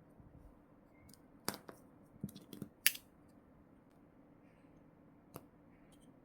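Plastic merchandise packaging being handled and opened: a handful of sharp clicks, clustered between about one and a half and three seconds in, the loudest near three seconds, with one more near the end.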